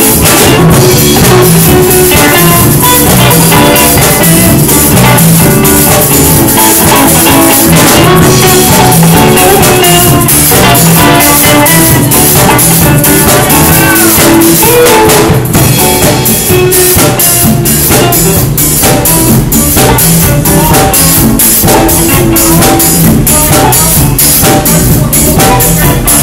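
Live band playing an instrumental groove with drum kit, bass and guitar, the drums keeping a steady beat.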